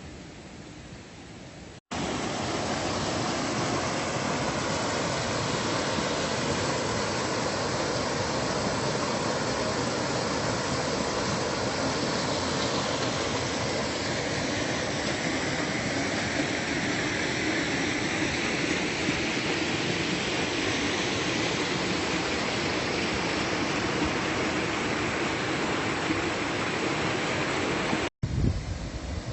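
Steady rush of a waterfall's falling water. It starts abruptly about two seconds in and cuts off abruptly near the end.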